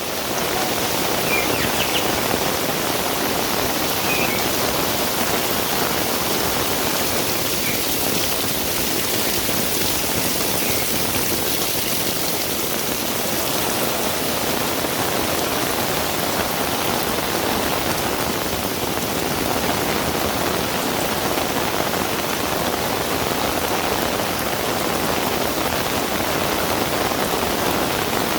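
Heavy rain falling steadily, a dense even hiss of downpour with no let-up.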